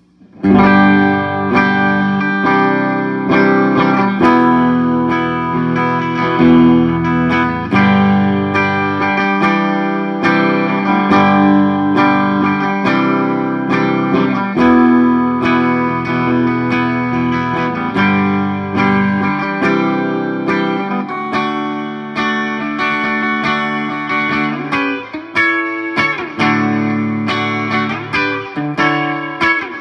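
Electric guitar, a 1967 Gibson SG with three P90 pickups played through a Marshall JCM 2000 amplifier via a Headrush pedalboard, starting about half a second in with picked and strummed chords that ring on between strokes.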